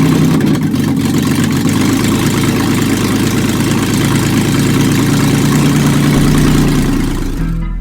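Nissan Xterra race truck's engine running loudly and steadily, just after firing up.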